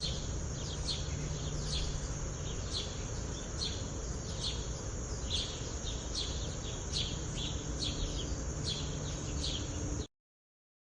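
A bird chirping repeatedly, short sharp high calls roughly every half second to a second over a steady background hiss, cutting off suddenly about ten seconds in.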